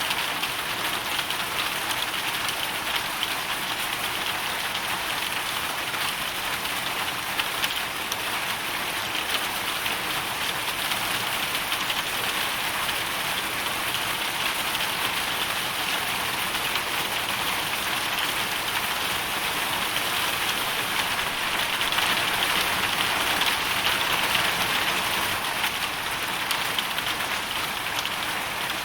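Hail storm: hailstones and rain falling as a dense, steady hiss of countless small impacts, swelling a little about three quarters of the way through.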